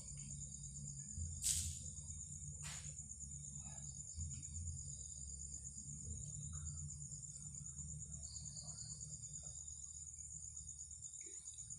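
Crickets trilling steadily in a continuous high-pitched chorus over a low steady rumble, with two short sharp clicks about a second and a half and three seconds in.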